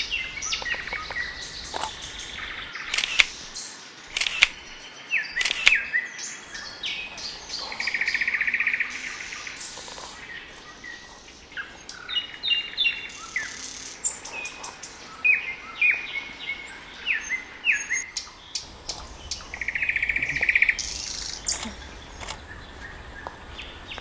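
Several wild birds singing in woodland: quick chirps and whistles, with a buzzy trill lasting about a second around eight seconds in and again near twenty seconds. A few sharp clicks stand out above the birdsong a few seconds in.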